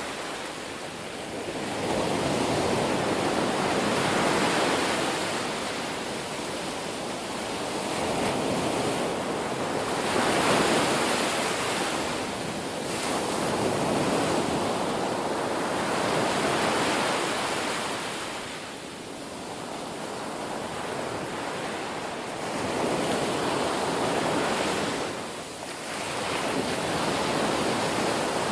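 Ocean surf: waves breaking and washing in, a continuous rush of water that swells and fades every few seconds.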